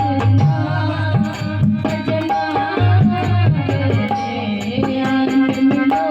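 Dholak hand drum played in a steady folk rhythm, its bass strokes bending in pitch, with a melodic line carried over the drumming.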